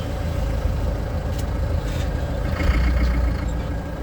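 Vehicle engine and road noise from inside a moving vehicle: a steady low rumble that swells slightly a little past halfway.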